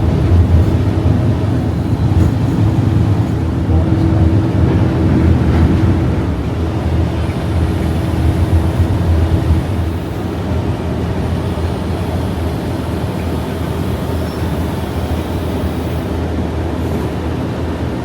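English Electric 12CSVT V12 diesel engine of Class 37 D6700 running, heard on board the locomotive as a steady, loud, low drone. It eases slightly about halfway through.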